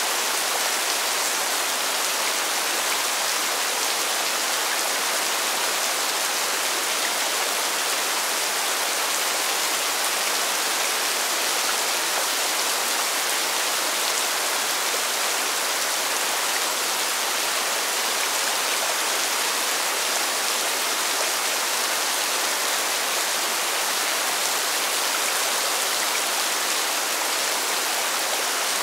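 Constant rain hitting pavement: a bright, even hiss of countless drops, with no single drop or gust standing out.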